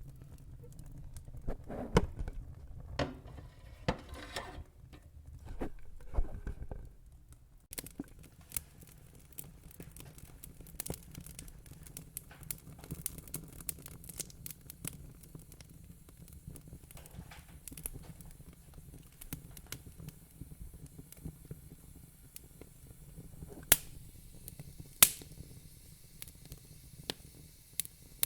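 Wood fire in a fire pit crackling, with irregular sharp pops over a low steady rumble; a few louder pops stand out about two seconds in and twice near the end.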